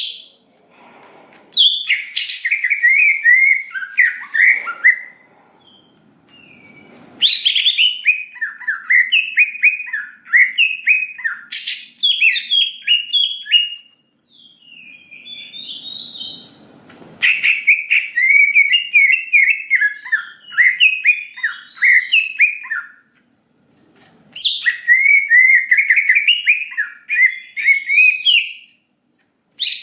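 Cucak ijo (green leafbird) singing loud phrases of rapid, varied chirps and whistles. The phrases last several seconds each, with short pauses between them.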